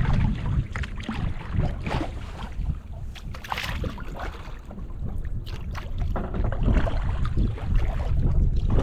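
Wind rumbling on the microphone during kayak paddling, with scattered short splashes of water from the paddle strokes.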